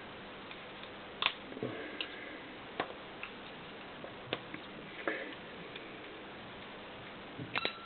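Scattered light clicks and taps, about eight spread unevenly over several seconds, as worn connecting-rod bearing shells are pushed out of a Honda CX500 connecting rod and handled.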